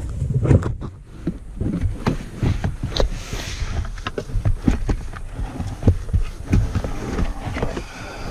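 Irregular handling noise close to the microphone: a string of short taps and clicks, uneven in spacing, over a low rumble.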